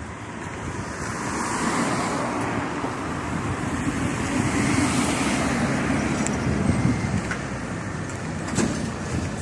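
Road traffic: vehicles passing by, the noise swelling twice and then easing off.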